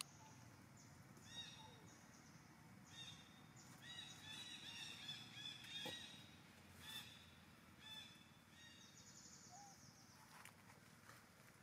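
Faint outdoor ambience with birds chirping, a quick run of short repeated calls in the middle and high thin trills at the start and near the end, with a few soft clicks.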